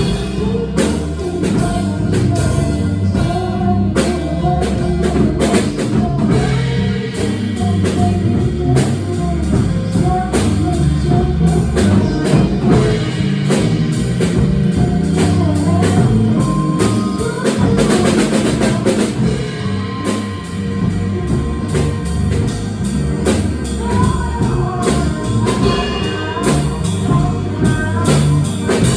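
A jazz band playing live, with drum kit and bass prominent under the melody.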